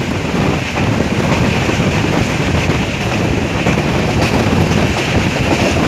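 Passenger train running at speed: a steady rush of wind buffeting the microphone over the low rumble of the moving coach.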